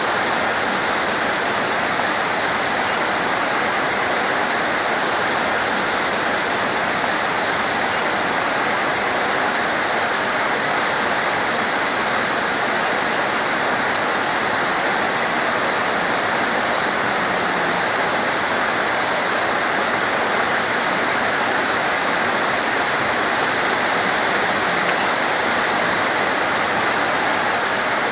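Torrential rain pouring down as a steady, dense hiss, with a single faint tick about halfway through.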